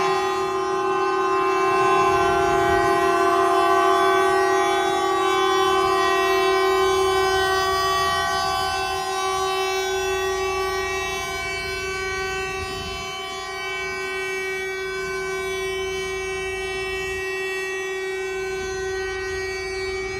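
Truck air horns blaring without a break, several horns sounding together at different pitches, easing slightly in loudness about two-thirds of the way through.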